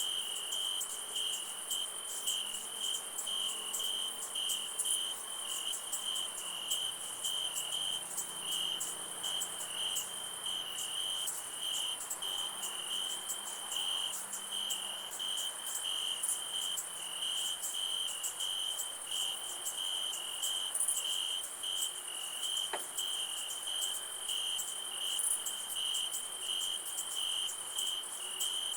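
Crickets chirping at night: a steady, evenly pulsing chirp repeating without break, over a higher continuous insect trill.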